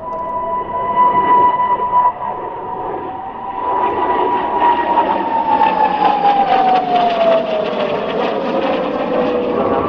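Jet engine whine and rushing noise of Hongdu L-15E jet trainers flying by, the whine holding steady and then falling in pitch about six seconds in as the jets pass.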